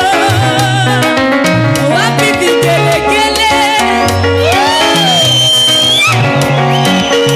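Instrumental break of a Swahili gospel worship song: a bouncing bass line and drums under a gliding, vibrato-laden lead melody, with a Latin, salsa-like feel.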